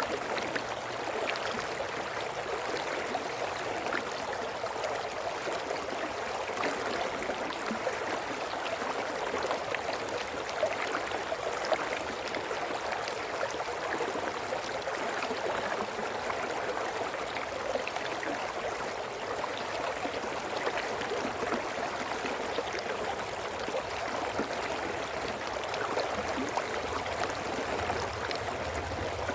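A small brook running over stones: a steady babble of water with many small splashes and gurgles, no rise or fall.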